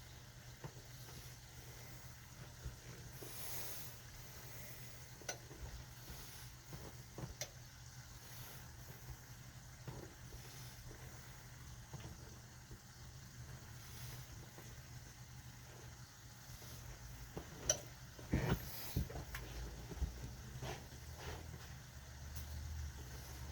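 Faint kitchen sounds of food cooking on the stove: a light sizzle over a steady low hum, with scattered small clicks and a few louder knocks about 18 seconds in.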